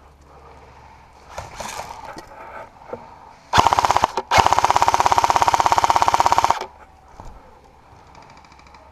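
Airsoft gun firing on full auto: a short burst about three and a half seconds in, then after a brief pause a longer burst of rapid, evenly spaced shots lasting about two seconds.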